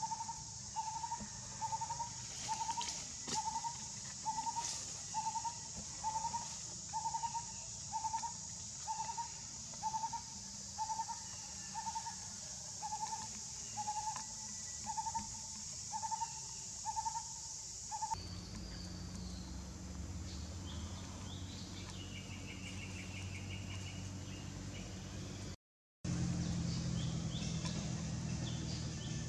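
A bird calls with a single hollow hooting note, repeated about three times every two seconds over a steady high hiss. About eighteen seconds in, the hooting and hiss stop abruptly, leaving faint bird chirps and a low rumble.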